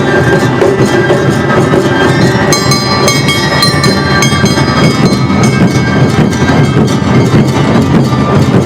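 Live Awa Odori festival music from the troupe's ensemble of drums, gongs and flutes, playing continuously. A cluster of high metallic ringing stands out a few seconds in.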